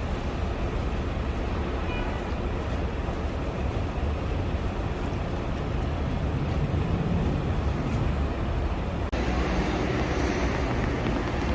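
Steady low rumble of vehicle noise, with a brief dropout about nine seconds in, after which the sound changes slightly.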